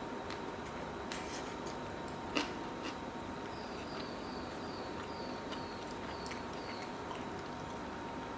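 A run of short, high, slightly falling chirps, about three a second, from a small animal, over a steady faint hum. A few sharp clicks come through, the loudest about two and a half seconds in.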